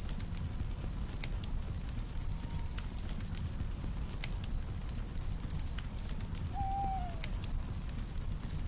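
Campfire crackling with irregular sharp pops over a low steady rumble, crickets chirping in a steady pulsing rhythm, and a single short falling owl hoot about six and a half seconds in.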